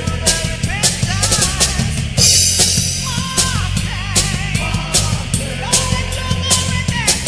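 Heavy metal band playing an instrumental passage: driving drum kit with bass drum and snare under a lead line of held, bending notes with vibrato, and a cymbal crash about two seconds in.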